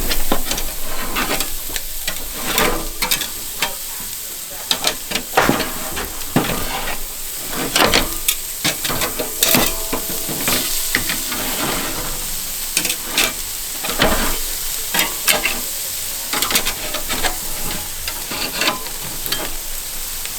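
Food sizzling steadily on the grate of a PK 360 grill, with frequent irregular clicks, taps and scrapes of utensils handling the food on the grate.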